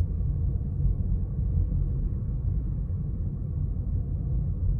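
Steady low rumble of a car driving in town, heard from inside the cabin.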